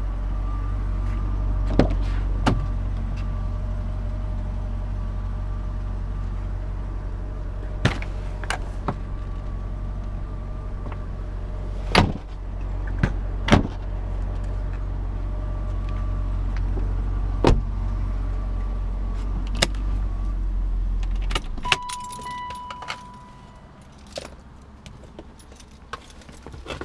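1994 BMW 530i's M60B30 V8 idling, heard from inside the cabin, with sharp clicks and knocks of things being handled. About 21 seconds in the engine is switched off and its hum stops abruptly, followed by a short electronic beep and faint clicks and rustling.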